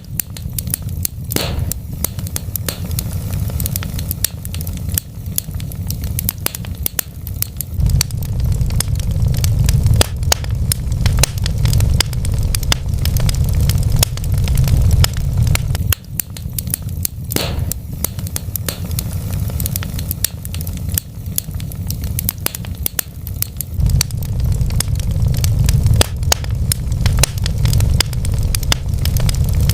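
Wood fire crackling in a fireplace: a steady low rumble with many sharp crackles and pops, two of them louder, about a second in and midway through.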